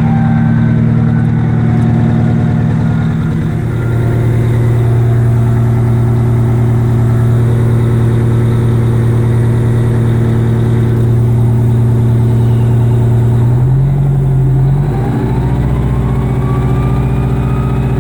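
Detroit Diesel 8V92 two-stroke V8 diesel running hard on a cold start, its note changing about two-thirds of the way through. Over the last few seconds a high turbocharger whine climbs steadily in pitch.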